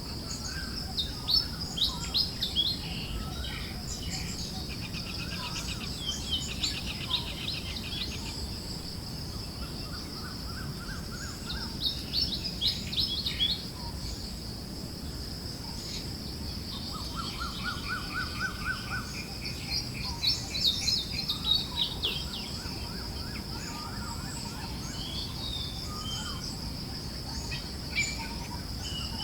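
Forest birds chirping and trilling in repeated short bursts, over soft steady wind noise and a constant high hiss.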